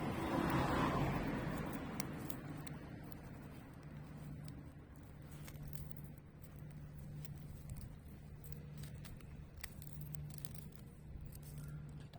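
Spear thistle burning in a fire pit: scattered small sharp crackles and pops over a low steady hum. A louder rushing swell peaks about a second in and fades over the next two seconds.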